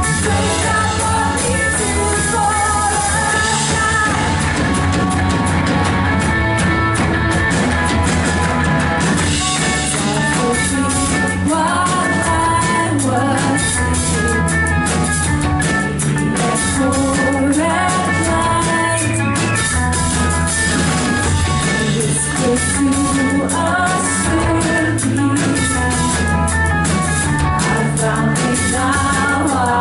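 Live worship band playing a song with singing, electric guitar and drum kit.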